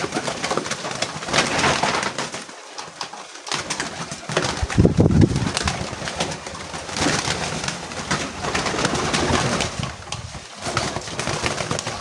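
A flock of homing pigeons cooing as they crowd and compete for feed, with many short clicks and scuffles among them.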